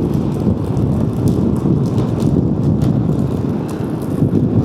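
Heavy wind buffeting on the microphone over a motorcycle running at speed, a steady low rumble.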